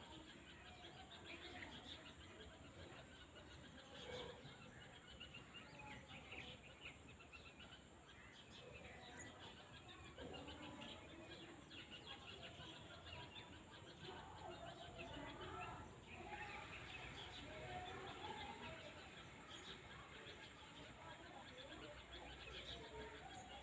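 Faint rural outdoor ambience: many small birds chirping, with some lower, longer bird calls partway through, over a low steady background rumble.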